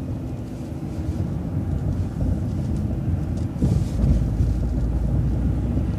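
Low rumble of a city bus driving, with engine and road noise heard from inside the vehicle and a heavier surge of rumble about four seconds in.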